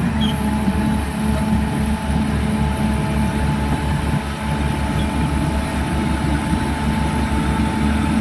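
Caterpillar E180 excavator's diesel engine running steadily with a low throb.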